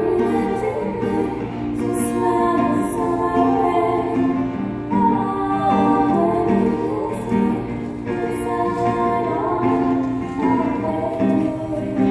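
Concert choir singing a song, with instrumental accompaniment keeping a regular beat underneath.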